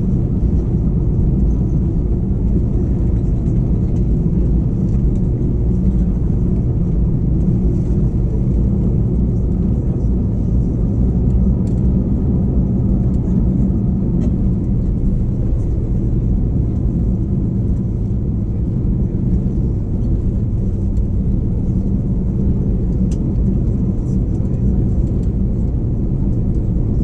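Steady low rumble in the passenger cabin of an Airbus A321-211, its CFM56 engines running at idle on the ground before takeoff, with no spool-up.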